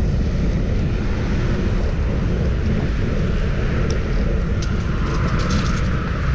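Wind buffeting the microphone of a bicycle-mounted camera while riding along a street, a steady low rumble. A hiss rises over the last second or so, with a few light clicks.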